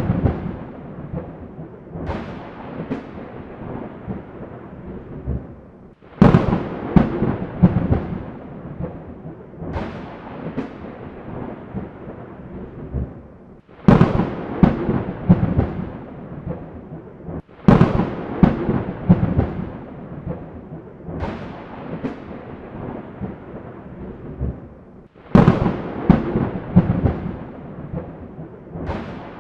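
Thunderstorm: a sharp crack of thunder about every four seconds, each one trailing off into a long rolling rumble.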